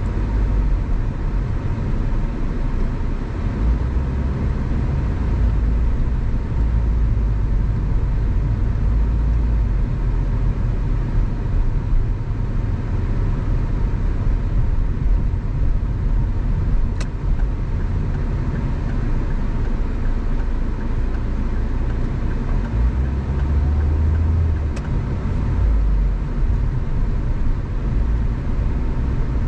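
A car driving on suburban roads: a steady low rumble of tyres and engine with road noise. Two faint clicks come through, one about halfway and another a few seconds later.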